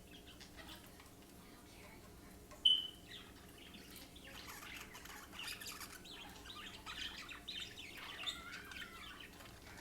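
Parakeets chirping: one sharp, loud chirp about two and a half seconds in, then a run of quick squeaky, warbling chirps from about four seconds on.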